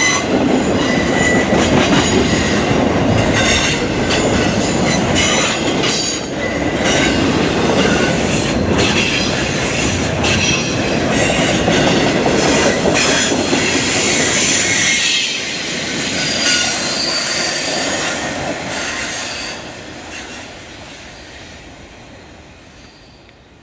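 Freight train rolling past at close range: steady wheel and rail noise, high steel-wheel squeal, and scattered clanks from rail joints. The sound fades away over the last few seconds.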